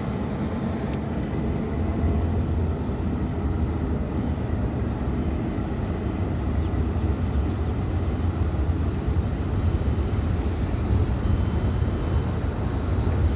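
Steady low rumble of a train running past, growing louder about two seconds in.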